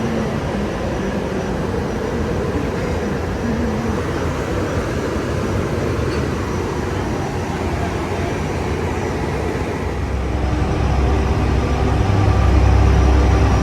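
Train running: a steady rumble, then a low engine drone with steady tones that swells louder about ten seconds in.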